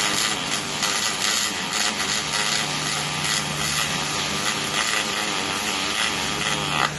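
Welding arc crackling steadily, with the irregular spitting of a MIG weld over a steady low hum.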